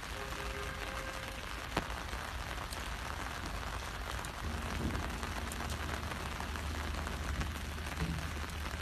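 Steady rain pattering on an umbrella overhead, with one sharp tick about two seconds in and a low rumble coming in about halfway through.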